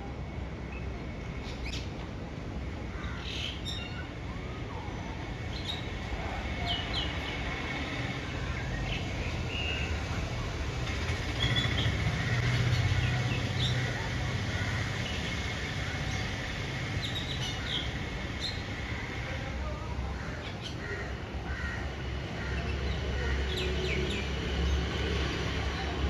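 Birds chirping and calling in short, scattered notes. A low rumble runs underneath and swells around the middle and again near the end.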